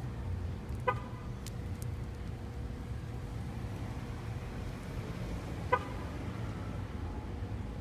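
Steady low rumble of street traffic, with two short, sharp pitched calls about five seconds apart.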